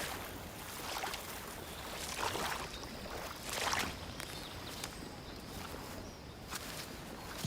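Water sloshing and lapping, in a few soft irregular swishes over a quiet outdoor background.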